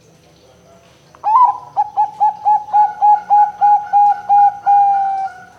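Bangkok-strain zebra dove (perkutut) cooing. About a second in comes a quick run of a dozen short, clipped coos, about four a second, ending in one longer drawn-out coo that sinks slightly in pitch.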